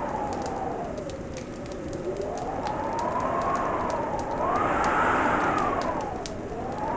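Wood fire crackling with scattered sharp pops over a steady hiss, under a howling winter wind whose whistle slowly rises and falls in pitch, swelling loudest about five seconds in.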